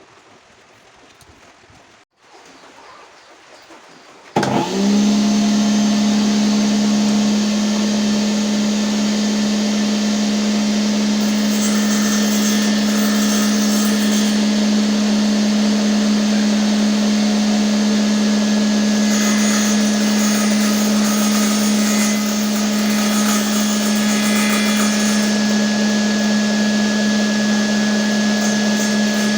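A mini table saw's DC 895 24 V motor switches on about four seconds in, comes up to speed almost at once and then runs steadily at one high speed, with a loud, constant pitch.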